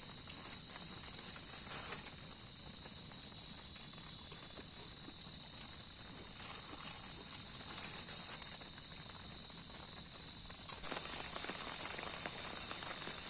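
Steady, high-pitched chorus of night insects, with a few small clicks and taps near the middle and toward the end.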